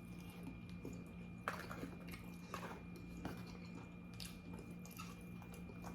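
Faint chewing of a pizza roll casserole, with a few soft mouth clicks and smacks scattered through.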